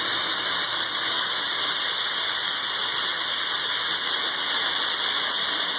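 Compressed-air coolant mister turned up, giving a steady hiss of air and mist.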